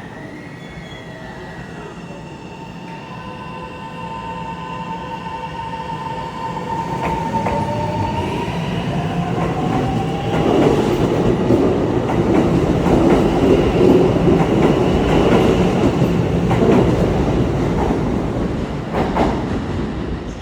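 Kintetsu 8A series electric train pulling away: the traction motors' whine rises in pitch as it accelerates, and the rumble of wheels on rail grows steadily louder, heaviest from about ten seconds in, with a few sharp clacks.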